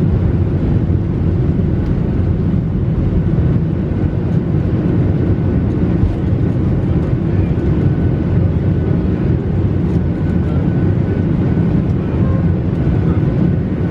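Steady low rumble of engine and airflow noise inside a passenger airliner's cabin, unchanging throughout, with a faint steady whine joining in about halfway.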